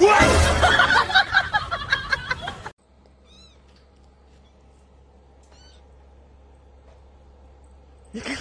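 A cat meowing loudly for under three seconds, cut off abruptly, followed by a quiet stretch with a couple of faint high chirps.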